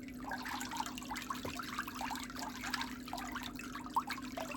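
Water trickling continuously, many small splashes, over a steady low hum.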